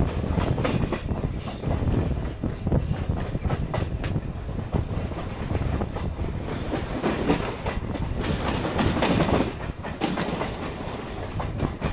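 Train wheels clattering over rail joints with a steady rumble, heard from a moving suburban local train as the Gitanjali Express runs past on the adjacent track.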